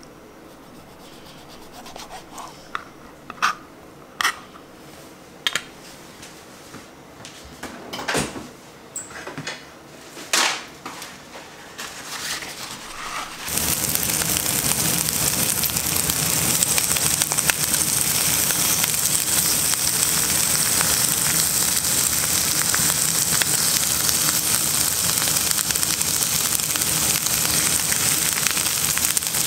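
Several sharp knocks of a knife on a cutting board as turban-shell (sazae) meat is sliced. About halfway through, loud steady sizzling of sazae pieces frying in olive oil in a frying pan takes over.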